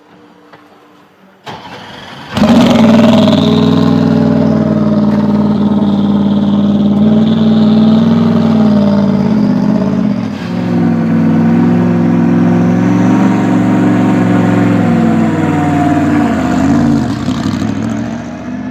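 Bentley Continental GT3's twin-turbo V8 firing up about two seconds in, then running loud at a fairly steady high idle, its pitch wavering a little and dipping twice before it eases off near the end.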